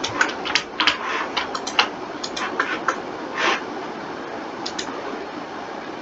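Irregular clicking of a computer keyboard and mouse during 3D animation work, a quick cluster of clicks over the first three and a half seconds and then only a few, over a steady background hiss.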